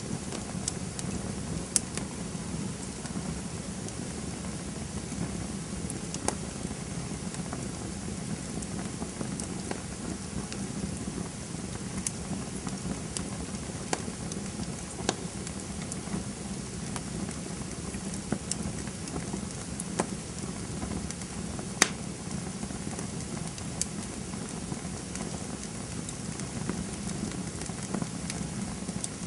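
Campfire burning with a steady low rush and scattered sharp crackles and pops, the loudest about two seconds in and again about twenty-two seconds in.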